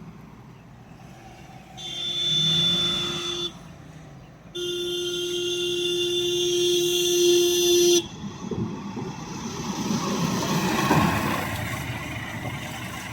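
A truck's horn sounds twice: a short blast, then a longer one of about three and a half seconds, both at one steady pitch. After that comes the rumble of a heavy truck engine moving on the bend, swelling and then easing off.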